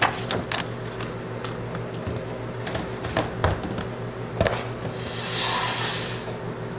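DVD box set being handled: a string of light clicks and taps from the plastic cases, and a longer rubbing swish about five seconds in.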